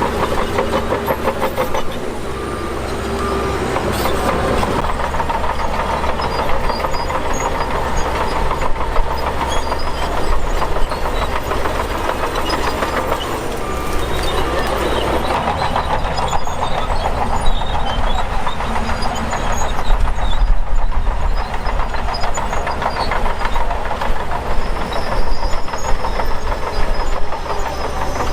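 Shantui DH17 crawler bulldozer working: its diesel engine runs steadily under the clank and rattle of its steel tracks, with occasional louder knocks.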